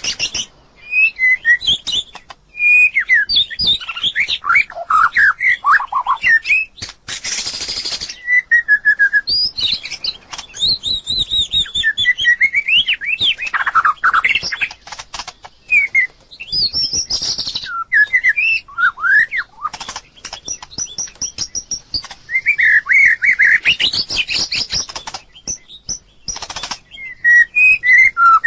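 White-rumped shama singing: a run of varied, fluty whistled phrases that glide up and down in pitch, separated by short pauses, with a couple of brief harsh rasping notes among them.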